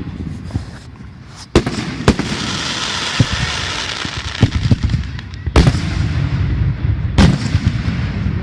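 Fireworks going off: four loud sharp bangs of shells bursting, spaced a second or more apart, with smaller pops, a crackling hiss for a few seconds after the second bang, and a low rumble throughout.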